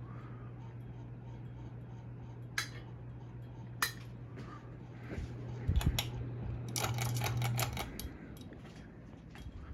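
Hampton Bay Carousel ceiling fan's motor running with a steady low hum, broken by two sharp clicks and then a burst of clicking and clinking about five to eight seconds in; the hum fades out near the end.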